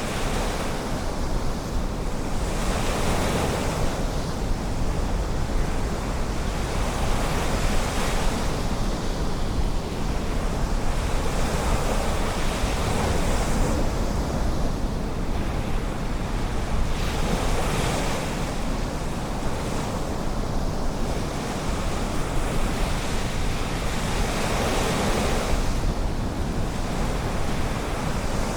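Ocean surf breaking and washing in continuously, swelling every few seconds, under a steady low rumble of wind on the microphone.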